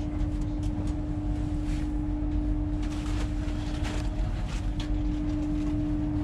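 Steady electrical hum inside a Lumo Class 803 electric train carriage: one constant low tone with fainter higher tones over a low rumble, with a few light clicks scattered through.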